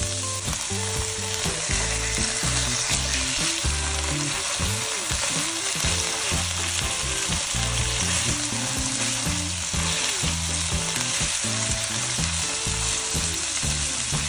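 Salmon fillets sizzling steadily as they fry in coconut oil in a nonstick pan, turned over partway through with a spatula.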